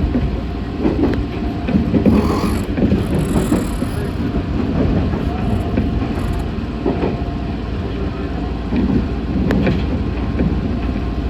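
Meitetsu 6500 series electric train running, heard from inside the car: a steady rumble of wheels on rail with scattered clicks from rail joints.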